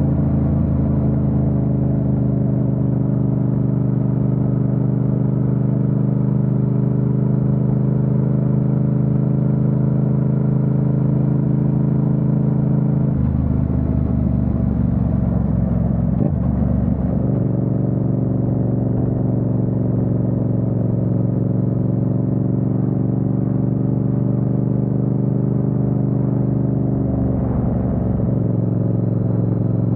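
Yamaha MT-07's parallel-twin engine running steadily under way. Its note shifts and wavers about halfway through and again near the end.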